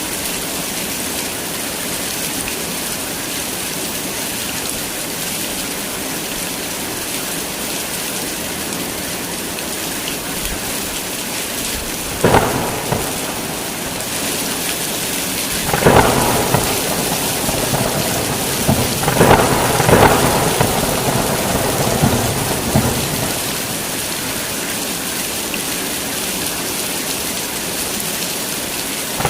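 Heavy rain falling steadily. About twelve seconds in, thunder cracks, then rolls through several more loud peaks over the next ten seconds before dying back to the rain.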